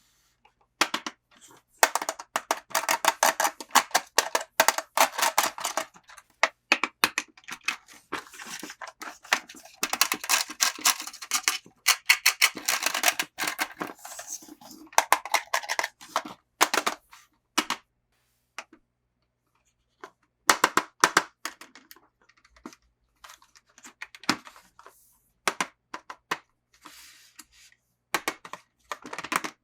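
Hands unboxing toy packaging: long runs of rapid crackling, tearing and clicking, thinning about halfway through into scattered clicks and a few short bursts.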